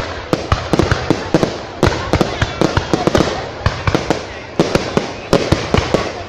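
Aerial fireworks bursting in quick succession: loud bangs in clusters of several a second, each with a rumbling tail.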